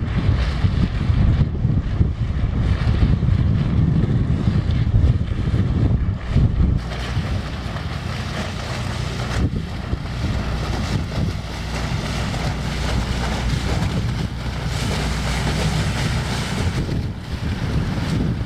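Inland motor cargo ship's diesel engine running as the vessel passes, with wind buffeting the microphone; about seven seconds in, the gusts ease and a steadier hiss takes over.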